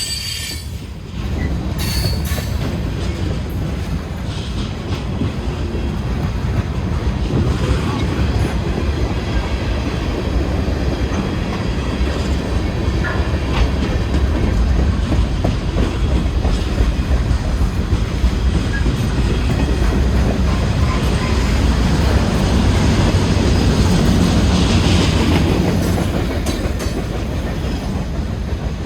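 Norfolk Southern freight train's cars rolling past at a street crossing: a steady rumble with wheels clattering over the rail joints.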